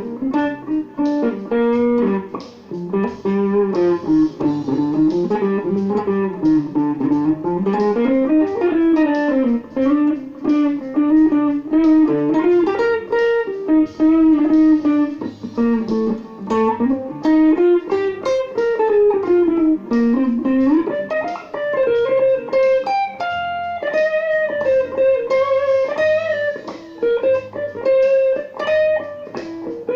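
Electric guitar played through a Line 6 POD HD300 modelling processor set to a chorus sound, improvising single-note melodic lines with bends and slides, over a low repeating bass part.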